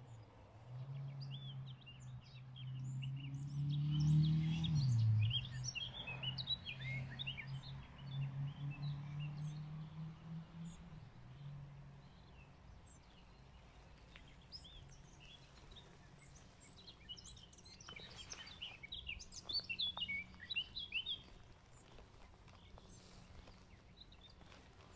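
Songbirds chirping and singing in quick high notes, busiest in the first ten seconds and again around eighteen to twenty-one seconds in. Under them a low steady hum rises, dips in pitch about five seconds in, and fades out about twelve seconds in.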